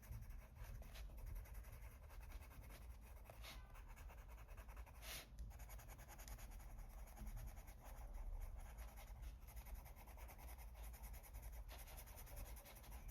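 Faint scratching of a coloured pencil stroking across paper, with a few slightly sharper strokes.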